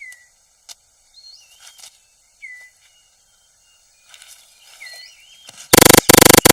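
Rainforest ambience with short, gliding whistled bird calls and light scattered clicks. Near the end a very loud, distorted buzzing sound effect cuts in as several short bursts, clipping.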